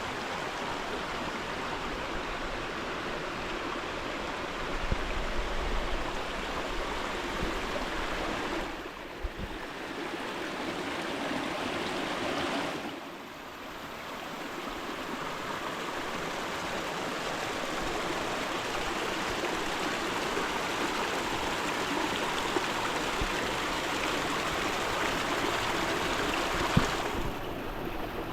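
Mountain stream rushing and gurgling over rocks, a steady, even wash of water noise that briefly dips twice in the first half.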